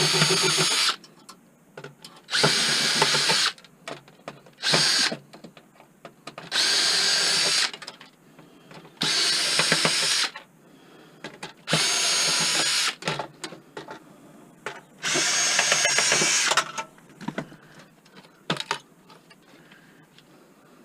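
Power drill run in seven short bursts, each about a second long with a pause between, driving out screws while a desktop computer is taken apart.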